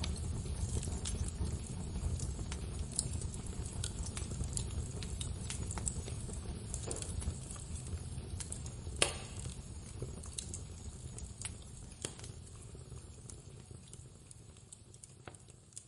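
Wood fire crackling in a fireplace: scattered pops and snaps over a low rumble, with one sharper crack about nine seconds in, the whole sound fading out steadily.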